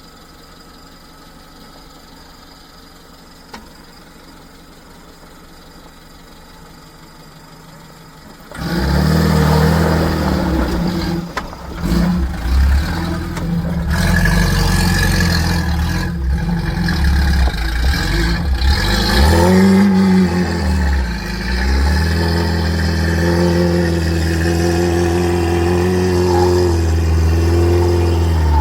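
Off-road 4x4 engine revving hard under load, its pitch rising and falling as it works over rough, rutted ground, with a few knocks and clunks. It cuts in suddenly about nine seconds in, after a faint steady hum.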